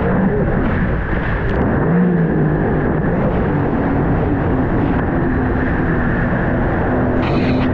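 Sea-Doo RXP-X 300 jet ski's supercharged three-cylinder engine running at speed, its note shifting a little in pitch, under a steady loud rushing noise.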